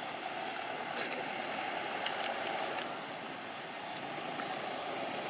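Steady outdoor background noise, with a few faint short high-pitched chirps scattered through it.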